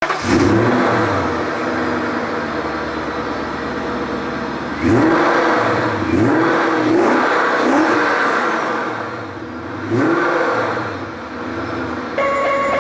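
BMW 744i's V8, tuned to a claimed 600 hp, revved in about six quick blips, each rising and dropping back, with steady running in between.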